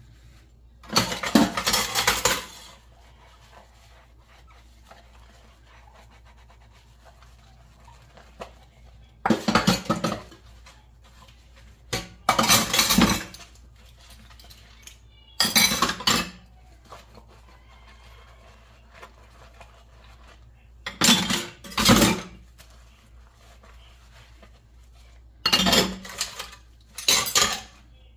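Dishes and cutlery clattering and clinking as they are handled, in about six separate bursts of a second or two each with quiet pauses between.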